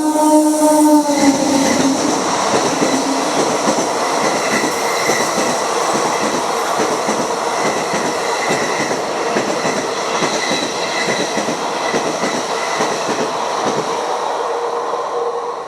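A WAG-9HC electric locomotive's horn sounds, dropping in pitch as it passes and cutting off about a second in. The express then rushes by at speed, with the steady noise of wheels on rail that eases slightly near the end.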